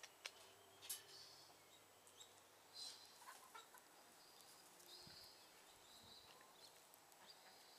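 Faint, intermittent clucking of backyard hens, with a few brief high calls and clicks over a quiet background.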